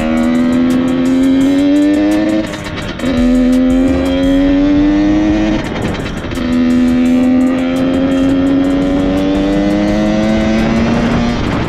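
Dirt bike engine accelerating through the gears: the pitch rises steadily in each gear and drops at each shift, with three shifts spread across the stretch.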